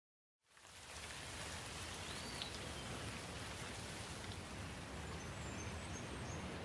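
Steady rain falling, an even patter of drops that fades in about half a second in.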